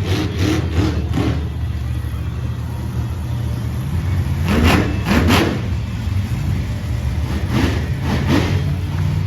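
Monster truck engine running at a steady idle, blipped in quick revs near the start, then revved hard twice in the middle and twice more near the end.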